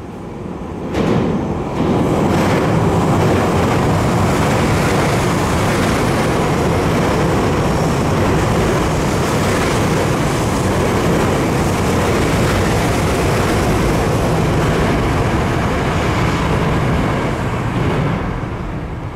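Tokyo Metro 10000 series train running through the station at speed without stopping: a loud, steady rumble of wheels on rail that comes up sharply about a second in and fades near the end.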